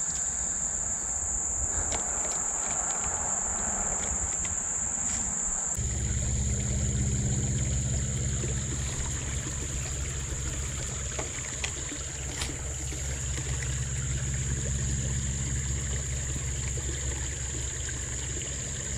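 Steady high-pitched insect chorus, a continuous drone. About six seconds in a low steady rumble starts underneath and runs on.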